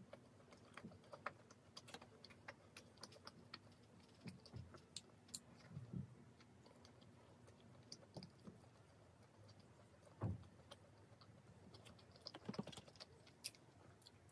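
Close-miked chewing of pizza crust: soft, scattered mouth clicks and small crunches, with a few soft low thumps.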